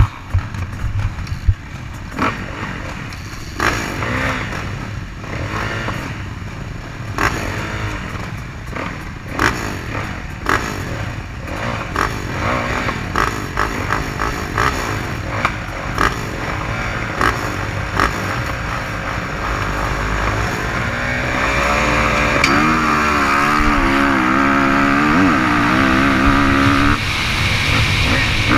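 Motocross dirt bike engine running, with frequent knocks and clatter over a rumbling background; in the last several seconds the engine pitch climbs and wavers up and down as it revs.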